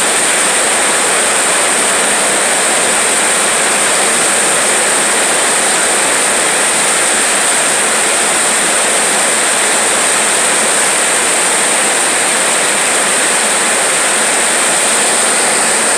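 Heavy rain falling steadily in a downpour, a loud, even hiss with no let-up.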